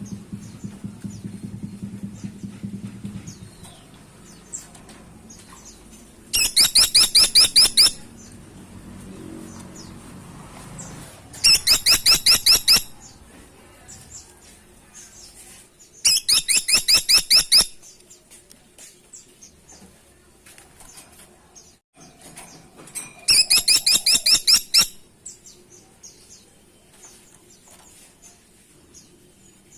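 Caladi tikotok, a small Indonesian woodpecker, giving its rattling call four times: each call is a rapid, even run of high sharp notes lasting about a second and a half, with about five seconds between calls.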